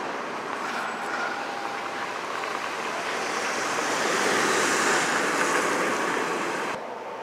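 Broad rushing rail noise of trains moving through the station tracks, swelling to its loudest about four to five seconds in, then cutting off suddenly near the end.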